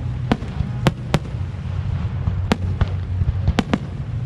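Fireworks display: a quick, irregular string of sharp bangs from bursting shells over a steady low rumble.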